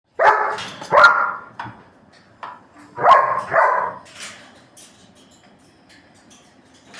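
German shepherd barking: four loud barks in two pairs, the first pair right at the start and the second about three seconds in, followed by faint scattered clicks.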